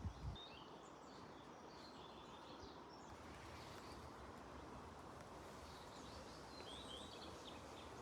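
Faint birdsong: small birds chirping on and off over a steady outdoor background hiss, with a brief low thump right at the start.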